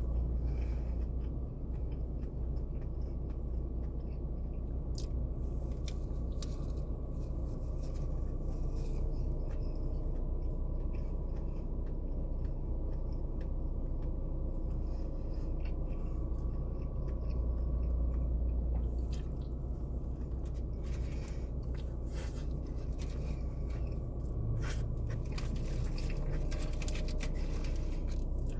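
A person chewing and biting into food, with scattered small crunching and rustling clicks, more of them near the end, over a steady low hum.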